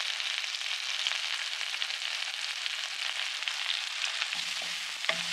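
Oil sizzling steadily in a pan as chopped garlic, onion and spring onion whites fry, with a fine crackle throughout. A faint low hum comes in near the end, along with a single light knock.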